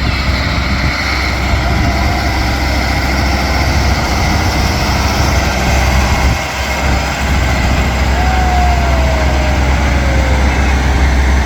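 Farm tractor engines running steadily with a heavy low rumble.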